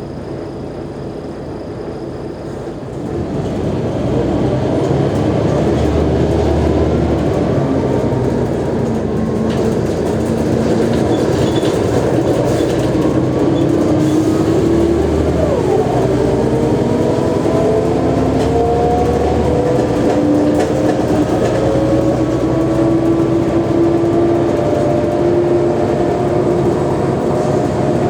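Mercedes-Benz O345G articulated city bus under way. It gets louder about three seconds in, and its drivetrain whine rises slowly in pitch over a steady rumble as the bus accelerates.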